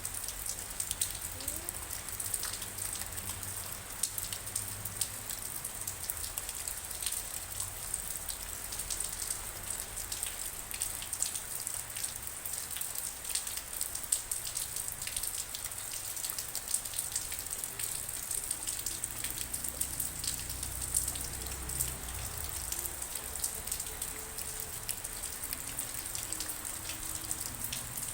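Steady rain, with many individual drops ticking sharply against a continuous hiss of rainfall.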